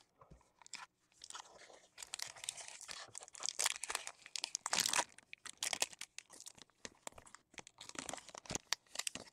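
A football trading card pack and its wrapper handled close to the microphone: irregular crinkling and crackling as the cards are shuffled through.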